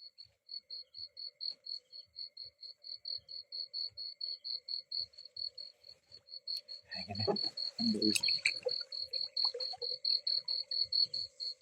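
Nocturnal insects calling in a night forest: a high chirp repeating evenly about five times a second, over a steady lower trill. About seven seconds in, a brief burst of low knocks or rustling stands out.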